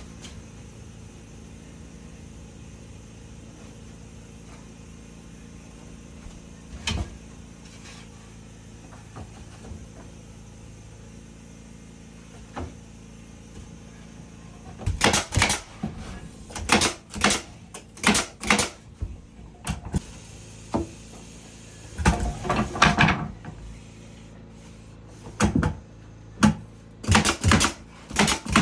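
A steady low hum, then from about halfway a run of sharp knocks in quick clusters, roughly two to three a second, with a short denser rattle a few seconds later.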